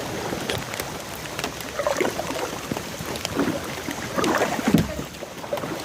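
Kayak paddling on floodwater: irregular paddle splashes and water dripping off the blades.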